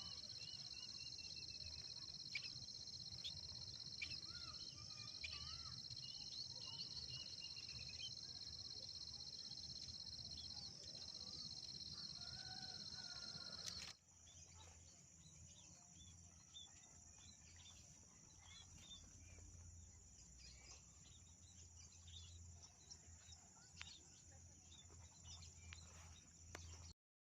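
Insects keeping up a steady high drone, with small birds chirping over it. About halfway through, the sound cuts abruptly to a quieter, higher insect drone with scattered faint clicks and chirps.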